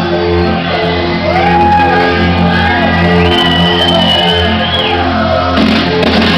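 Live band playing synth-driven electronic rock: steady sustained bass and synth notes under a held, sliding lead line, heard from within the audience with shouts from the crowd.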